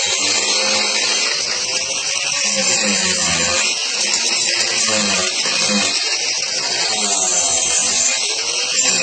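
An angle grinder fitted with a worn Saburtooth extra-coarse flat carving disc, missing many of its teeth, grinding steadily into wood. Its motor pitch sags and recovers over and over as the disc is pushed into the cut.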